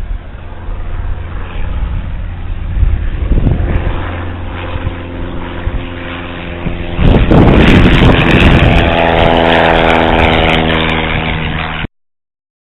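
Light propeller airplane's piston engine passing close by. It grows much louder about two-thirds of the way in, then its pitch drops slightly as it goes past, before the sound cuts off abruptly near the end.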